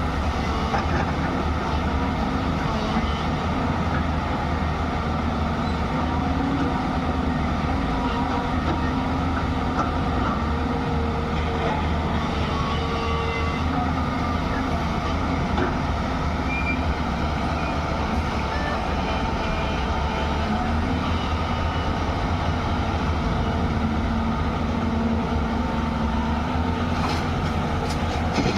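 Diesel engine of a JCB 205 excavator running steadily while it works, a constant low drone with no breaks.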